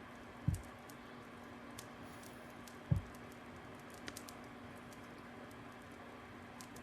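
Wood fire crackling: scattered sharp pops and snaps over a steady faint hum, with two louder dull thumps, about half a second in and near three seconds.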